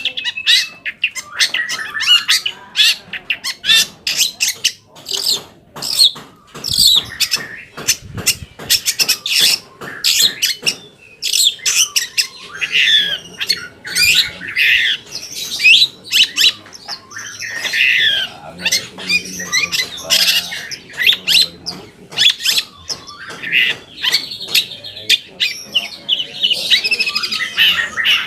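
Long-tailed shrike (cendet) singing a fast, unbroken run of harsh scratchy chatter and short squeaky chirps, a lure song meant to make other shrikes answer.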